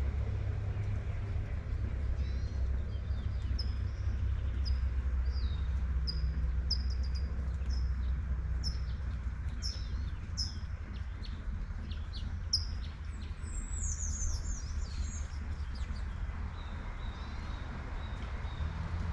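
Light rain falling over a steady low rumble, while small birds chirp repeatedly in short high notes. Near the middle of the stretch the birds break into a brief, busier twitter before falling quiet.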